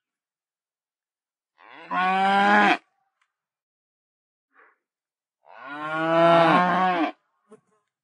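Cattle mooing: two long moos, the first about a second and a half in and the second, longer one in the latter half, each dropping in pitch as it ends.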